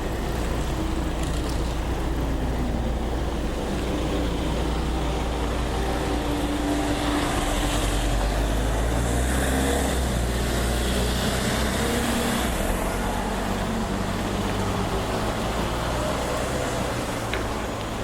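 Road traffic running past: steady engine and tyre noise, with one vehicle passing close and loudest about halfway through.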